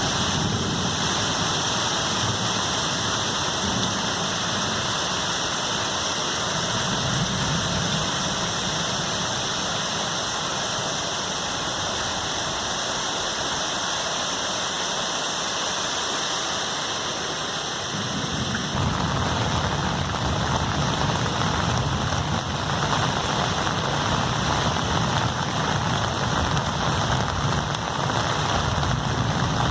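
Heavy rain pouring steadily, pattering on surfaces. About two-thirds of the way through it suddenly gets louder and fuller.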